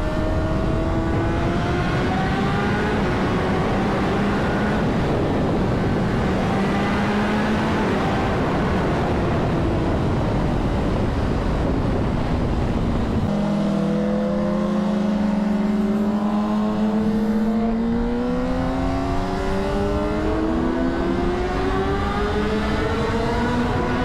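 Honda CBR600RR's inline-four engine running under way, over heavy wind rush. About halfway through the rush drops away sharply and the engine's pitch climbs steadily as the bike accelerates.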